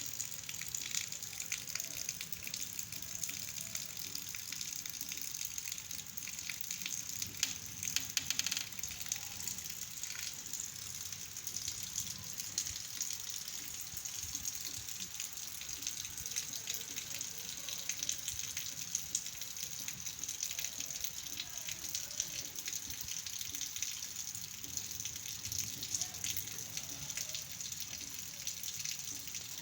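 Heavy rain pouring steadily: a dense, even hiss of falling drops with sharper spatters of individual drops, a little louder about eight seconds in.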